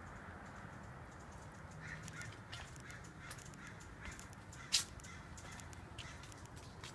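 Short bird calls over a steady background hiss, with scattered faint clicks and one loud, sharp click about two-thirds of the way through.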